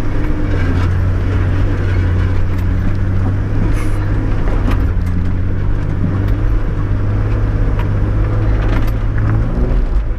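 Toyota 105 Series LandCruiser engine running at a low, steady note, heard from inside the cabin as it crawls a rutted dirt track, with scattered knocks and rattles from the body.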